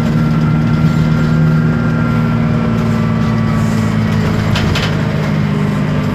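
Isobus City 1200 city bus under way, its MAN D0836 LOH diesel running steadily with a thin high whine from the ZF automatic gearbox and differential. A brief rattle of loose parts comes about four and a half seconds in.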